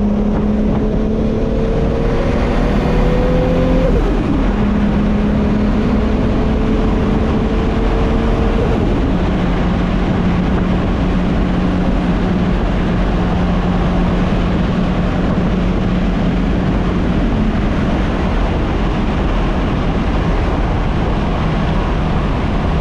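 Turbocharged Toyota MK4 Supra inline-six pulling hard, its note climbing, dropping at an upshift about four seconds in, climbing again and dropping at another shift near nine seconds, then holding a steady cruise, with road and wind noise.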